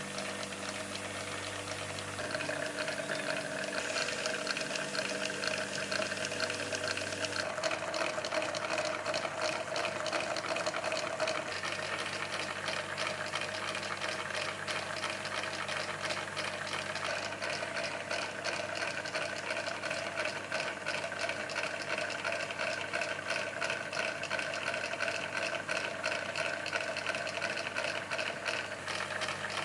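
Miniature model engine-room machinery running: small V-16 model engines and their gearing turning over with a steady hum and a rapid, even clatter that becomes busier about seven seconds in.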